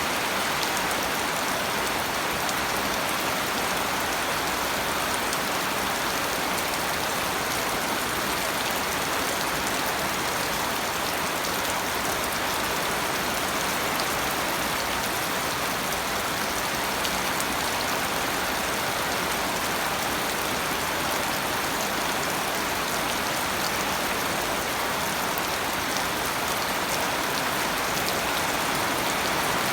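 Steady rain falling: an even, unbroken hiss of many drops, with scattered faint ticks of single drops.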